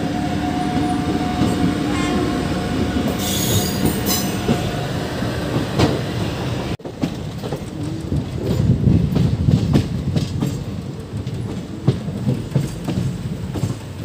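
Passenger train under way: wheels rumbling and clattering on the rails. A steady high note sounds for the first four seconds or so, with a hissing wheel squeal around the middle of it. The sound drops out abruptly about seven seconds in, then the rumble and clatter resume.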